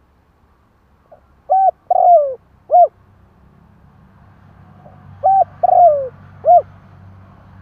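Spotted dove cooing: two three-note phrases about four seconds apart, the middle note of each the longest and falling in pitch. A faint low hum runs under the second phrase.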